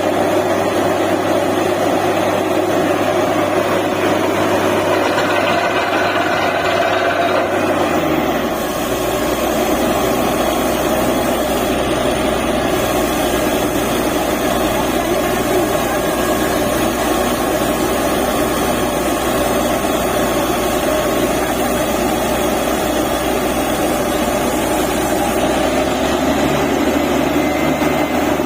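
DTH borewell drilling rig running steadily under a loud, continuous engine and machine noise. The low engine note shifts about eight seconds in.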